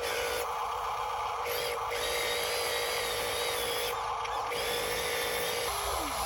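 Electric motor and gearbox of an RC dump truck whining, shifting abruptly in level and tone every second or so as the throttle changes.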